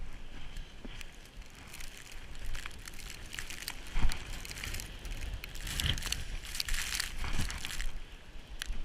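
Footsteps crunching irregularly through deep snow, over a low rumble of wind on the microphone, with one sharp, louder thump about four seconds in.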